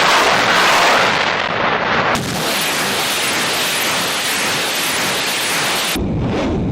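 Multiple rocket launcher firing a salvo: a loud, continuous rushing roar of rocket motors, turning to a deeper rumble near the end.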